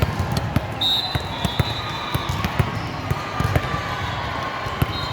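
Volleyball play in a busy gym: frequent sharp thuds of balls being hit and bouncing on the court over a background of voices, with a high held tone starting about a second in.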